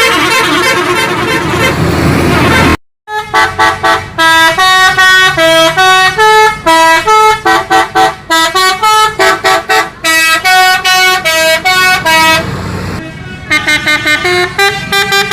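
Multi-tone vehicle horn playing a quick tune of stepped notes, in the style of an Indonesian 'telolet' bus horn. It follows about three seconds of loud noisy sound that stops suddenly.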